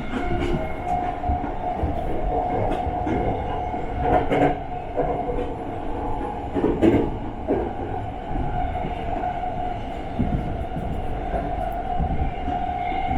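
Tokyu Den-en-toshi Line express train running at speed, heard from inside the car: a steady rumble of wheels on rail with a steady whine, and a few sharp clacks, the loudest about seven seconds in.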